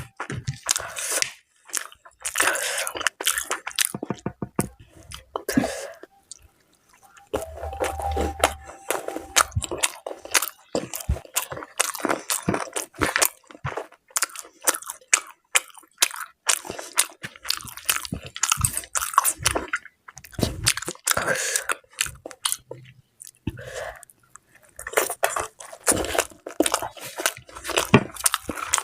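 A person eating close to the microphone: mutton curry, luchi and salad being chewed, with many crisp crunches and wet mouth sounds. There is a short pause about six seconds in.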